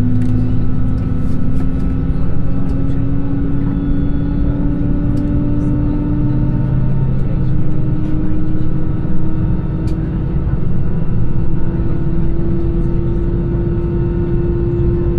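Airbus A320 engines and airframe heard from inside the passenger cabin: a loud, steady low rumble with an engine whine that climbs slowly in pitch throughout.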